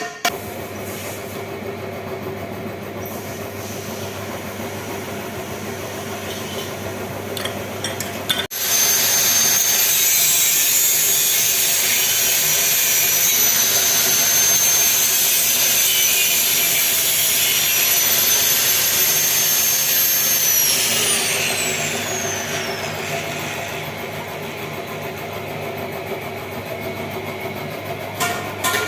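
A power tool working, likely on the exhaust, starts suddenly about a third of the way in and runs loud with a high whine for about twelve seconds. It then winds down, the whine falling as it spins down. Before it starts there is a quieter, steady workshop noise with a low hum.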